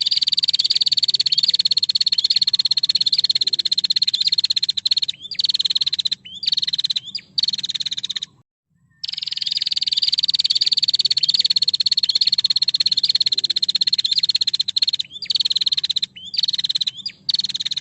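Female prinia (prenjak) giving its rapid rattling call: a long fast trill of about eight seconds that slowly falls in pitch, then a few short bursts, then after a brief pause the same long trill and bursts again.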